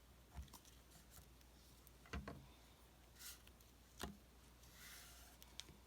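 Near silence with a few faint light taps and short soft rustles, as of small craft materials being handled on a work surface.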